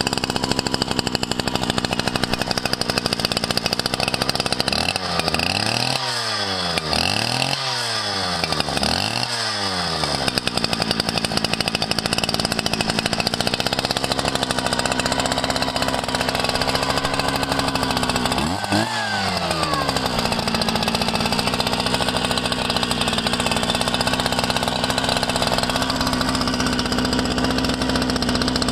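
Shindaiwa ECD577 57.3cc two-stroke engine cutter (cut-off saw) running steadily. It is revved up and back down three times in quick succession about five seconds in, and once more about two-thirds of the way through.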